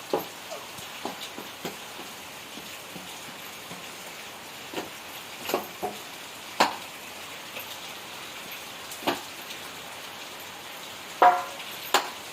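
Steady rain falling, with scattered sharp knocks and clicks of drops or small objects striking something. The loudest knock, near the end, rings briefly.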